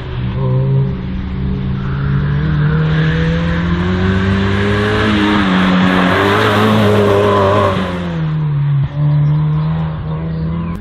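A slalom race car's engine revving up and down as it is driven hard through the cones, its pitch rising and falling with each burst of throttle. It grows louder as the car comes closest about halfway through, with a short lift off the throttle near the end.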